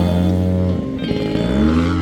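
Gas engine of a large RC aerobatic plane running, its pitch holding steady and then rising and falling, mixed with background music.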